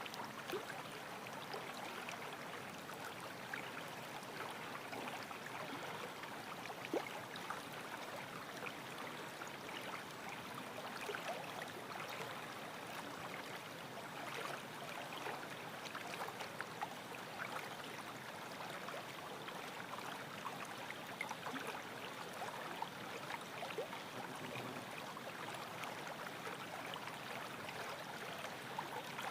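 Small stream of water flowing: a faint, steady rush with a few light ticks scattered through it.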